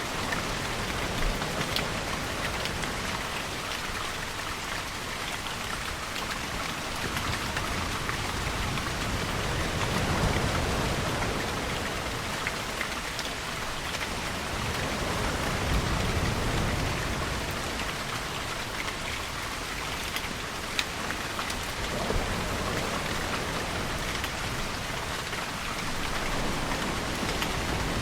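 Steady rain falling on surfaces, with scattered sharp drops landing close by. Slow, low rumbling swells rise and fall a few times beneath it.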